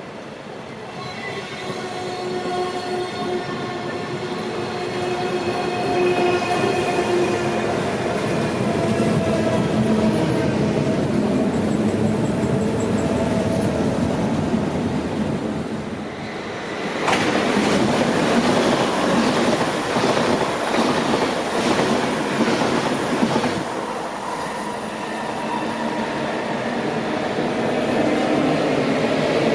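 Electric passenger trains moving through a station. First one train approaches and slows, giving a whine of several steady tones that slowly fall in pitch as it grows louder. About 17 seconds in, a sudden louder rumble with a rapid clatter of wheels over rail joints and points takes over, then eases back to a steady whine near the end.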